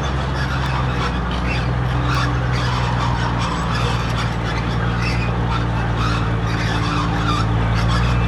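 Heavy diesel earthmoving machinery running steadily under load, with scraping and squealing on top.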